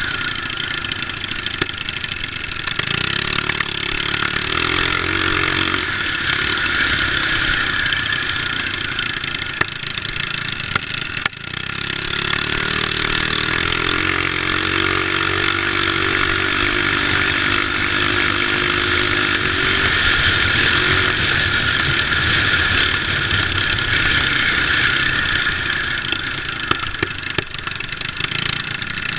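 Small mini bike engines running during a race, the pitch rising and falling as they rev and ease off, with a brief drop about eleven seconds in.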